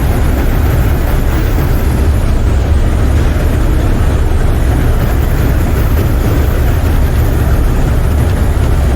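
Steady wind noise rushing through a semi truck's lowered cab windows, heard inside the cab over the low, steady running of the truck's engine and road noise while driving in strong crosswinds.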